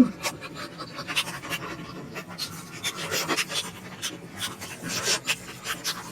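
Close-miked mouth sounds of someone eating momos: chewing and lip smacks heard as quick, irregular wet clicks. A brief low thud comes right at the start.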